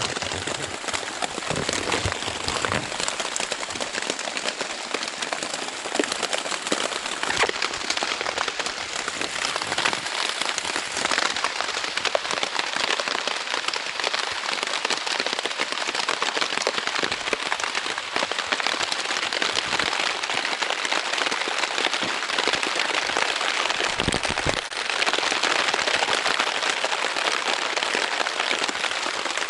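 Heavy rain drumming on the Dyneema fabric of a Zpacks Plexamid tent: a dense, steady patter with many sharp individual drop hits, growing a little heavier near the end.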